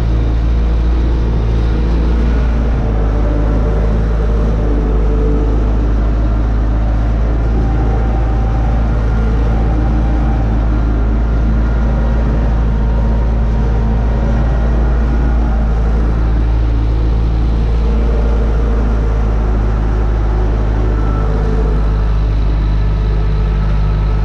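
UTB U650 tractor's diesel engine running steadily under load while pulling a disc harrow across a field.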